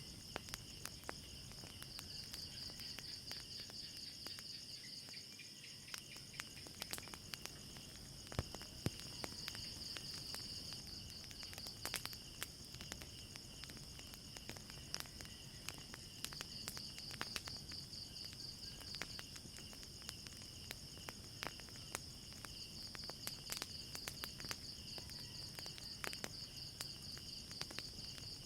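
Crickets chirping in a steady high trill, with irregular sharp crackles from a fire scattered throughout.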